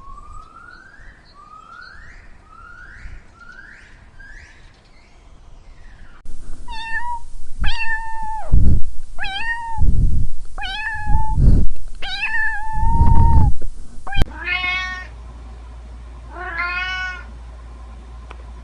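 Animal calls in several spliced recordings: five short rising squeaks, then louder pitched calls with heavy thumps, then a few longer drawn-out calls over a steady hum.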